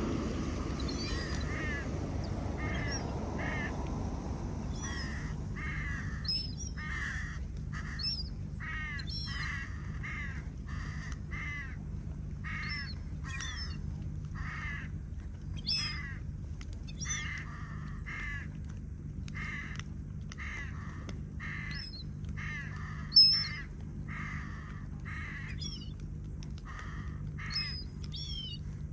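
Crows cawing over and over, short harsh calls about once a second, with one brief louder knock about three quarters of the way through.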